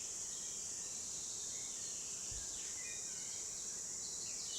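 Steady high-pitched insect chorus, with short falling bird chirps now and then over it.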